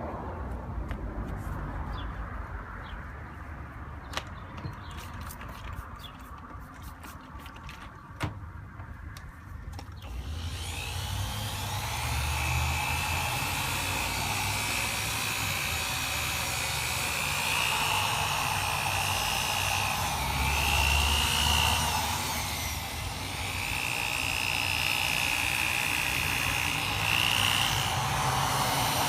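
Power drill spinning a wet sanding disc against a plastic headlight lens. It starts about ten seconds in with a steady whine that rises briefly twice as the speed changes. Before it there are a few faint clicks.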